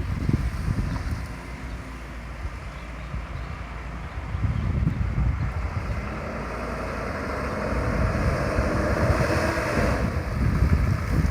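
Wind buffeting the microphone: an uneven, gusty low rumble with a hiss that swells about two-thirds of the way through.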